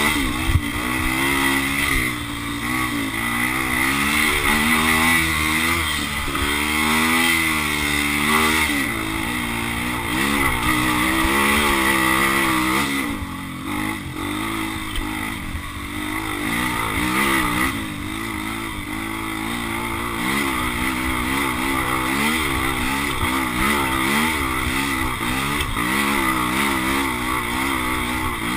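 Dirt bike engine being ridden, revving up and down over and over with the throttle as it works over the track; it eases off to a lower, quieter run about halfway through before picking up again.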